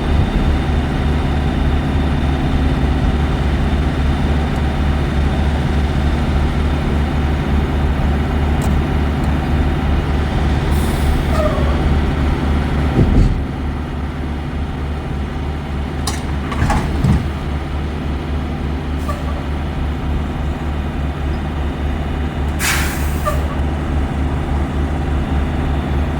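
Semi-truck engine running at a steady drone, with three short hisses of air about a third, two thirds and near the end of the way through.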